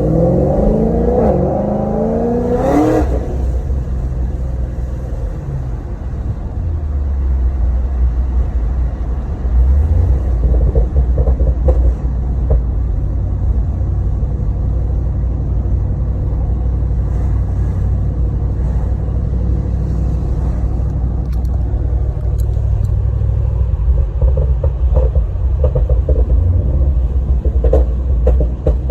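Supercharged 6.2-litre LSA V8 of an HSV VF GTSR through a 3-inch Xforce exhaust: the engine note climbs in pitch under throttle for about three seconds, then drops off to a steady low exhaust rumble.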